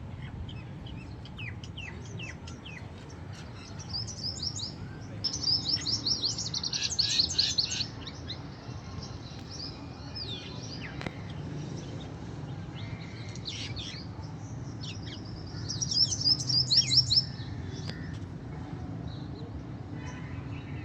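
Songbirds chirping, with scattered short high calls and two loud runs of rapid repeated chirps, one about five seconds in and one near the end, over a steady low rumble.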